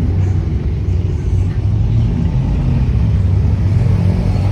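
Loud car engine and exhaust running with a deep, steady rumble.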